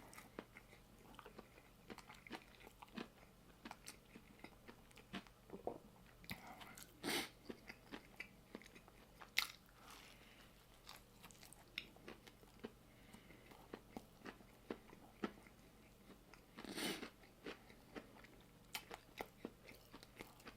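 Close-up chewing and biting of a crunchy chicken sandwich: soft, scattered mouth clicks and crunches, with a few louder crunchy bites about 7, 9 and 17 seconds in.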